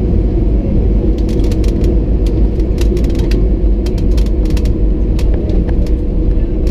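Cabin noise inside an Airbus A320: a loud, steady low rumble with a hum, and many short rattles and clicks throughout.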